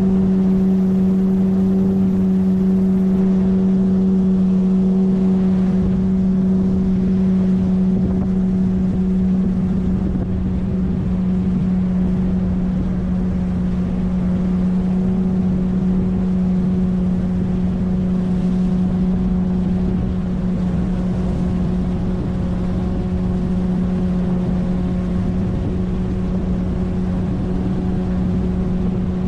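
A 9.8 hp outboard motor pushing an inflatable PVC boat, running at a steady speed with one even engine tone and a slight dip in level about ten seconds in.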